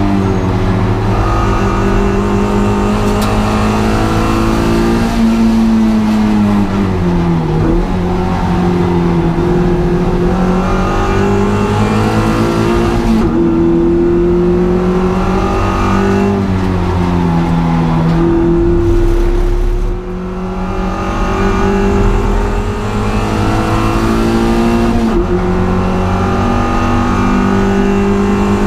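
Honda Integra DC2's four-cylinder engine at racing speed on track, revving up through the gears with the pitch falling at each shift. About two-thirds of the way through it briefly drops in loudness as the throttle lifts.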